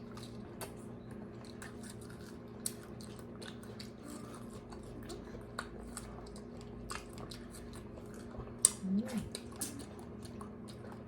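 Close-up chewing and biting of fresh strawberries: scattered wet mouth clicks and smacks over a steady low hum. A short vocal murmur comes about nine seconds in.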